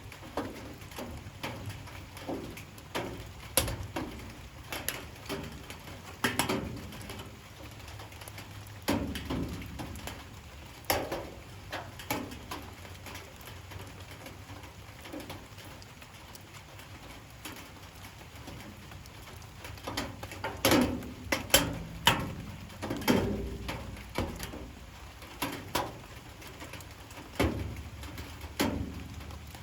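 Light rain with irregular drips and drops striking close by, sharp taps over a faint steady patter, coming more thickly about two-thirds of the way through.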